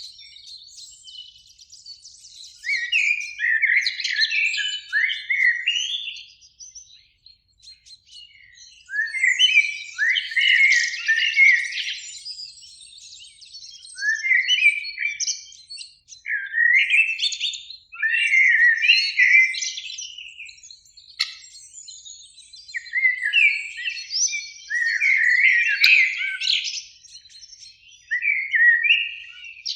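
Common blackbird singing: a series of fluting, warbling phrases a few seconds apart, each ending in a twittery flourish.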